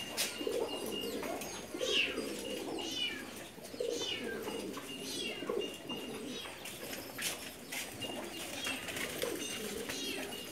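Domestic racing pigeons cooing, low and repeated, with short high chirps every second or so.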